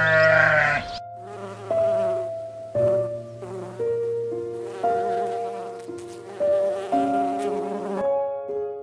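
A bee buzzing with a low steady hum over soft piano music. A Barbary sheep's bleat overlaps the first second.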